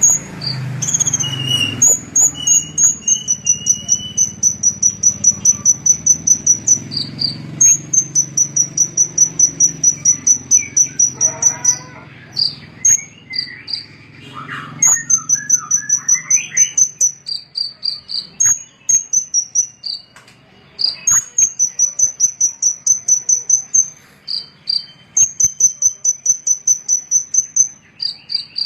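A small songbird singing long, rapid trills of high, evenly repeated chips, about five a second, in runs of several seconds with short breaks between them. A few lower sweeping whistled notes come about halfway through.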